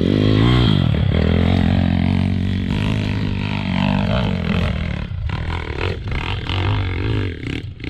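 Single-cylinder pit bike engine revving hard under load up a steep dirt hill climb, the revs swinging up and down with the throttle in the first second, then running on and getting quieter, with brief cut-outs near the end.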